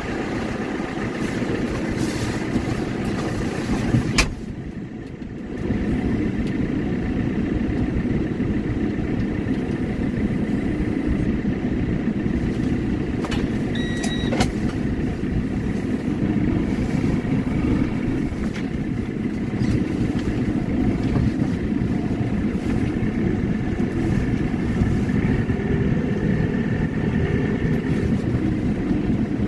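Claas tractor's diesel engine running steadily. A sharp click about four seconds in is followed by a brief quieter stretch, and there is another short click with a faint high tone near the middle.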